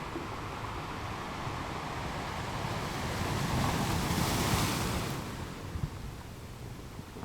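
Ocean waves breaking on rocks: a steady rush of surf that builds to one crash about four seconds in and then falls back, with a few small splashes after it.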